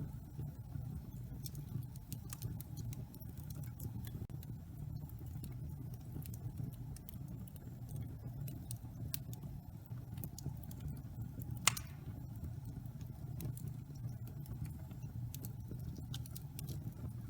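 Wood fire burning in a fireplace: a steady low rumble of the flames with scattered small crackles, and one louder pop about two-thirds of the way through.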